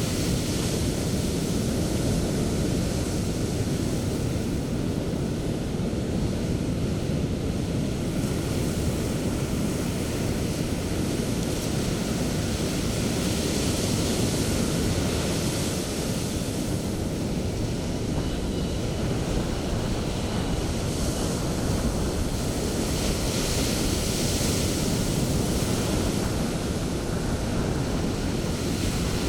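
Sea surf on a beach: a steady low rush of waves, with the hiss of breaking foam swelling up a few times as waves break and wash in.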